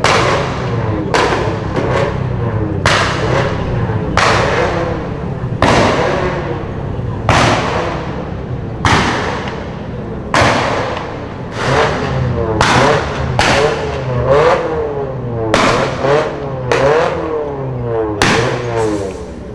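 Modified car engines revving up and down, with sharp exhaust bangs and pops about once a second throughout.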